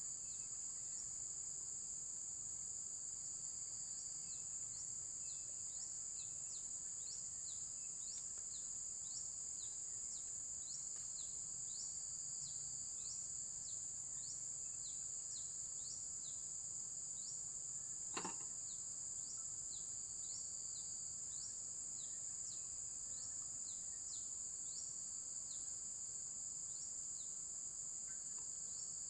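Steady, high insect chorus of crickets or cicadas, with short chirps repeating over it one to two times a second. A single sharp click sounds about two-thirds of the way through.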